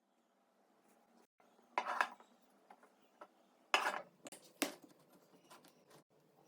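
Metal parts of a shotgun clinking and knocking as they are handled: three sharp clatters, about two seconds in and twice around four seconds in, among a few lighter clicks.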